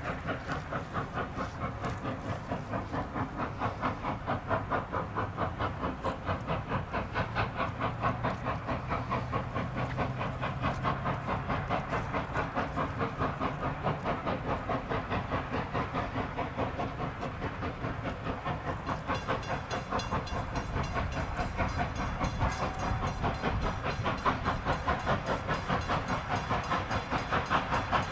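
Steam-powered passenger train running, with a fast, even rhythmic beat and hiss; a brighter, higher hiss joins about two-thirds of the way in.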